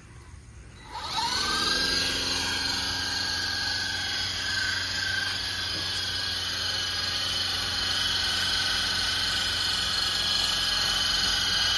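Small electric motors of a toy RC helicopter spinning up about a second in, rising in pitch, then running at a steady whine.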